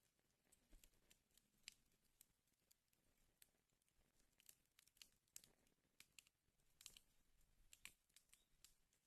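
Wood fire in a fireplace crackling faintly, with irregular small pops and snaps.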